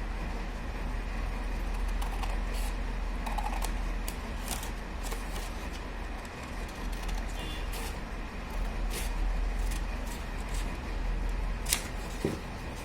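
Paper being handled, with light rustles and scattered short clicks over a steady low hum.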